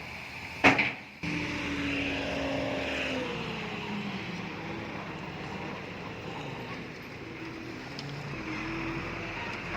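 Diesel engine of heavy earthmoving machinery running steadily, its tone shifting a little. A single sharp knock comes under a second in.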